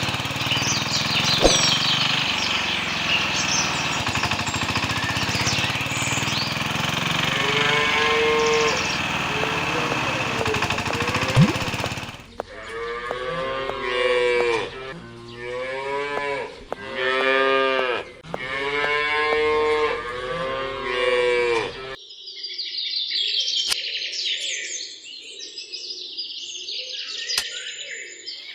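Cattle mooing: several drawn-out calls one after another, coming in sharply after a stretch of steady mechanical noise with high chirps over it. Higher chirping follows near the end.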